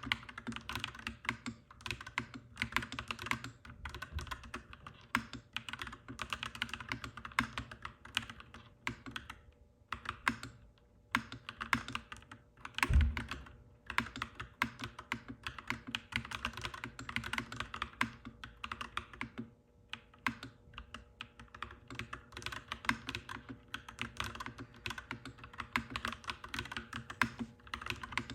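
Mechanical keyboard typed at a steady pace, with clacky keystrokes in quick irregular runs and brief pauses. A single heavier low thump stands out about halfway through.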